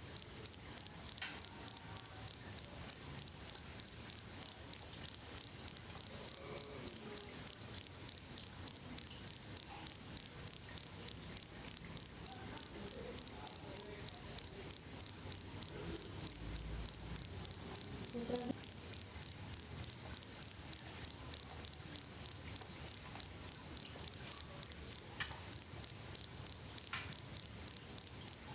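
Cricket chirping: a single high-pitched call repeated in rapid, evenly spaced pulses without a break.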